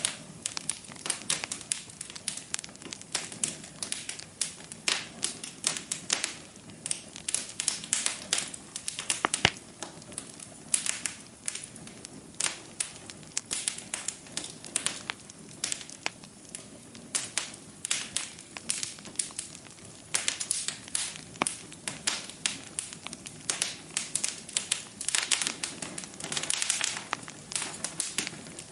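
Log fire burning in a fireplace, crackling with frequent, irregular sharp pops and snaps over a soft, steady rush of the flames.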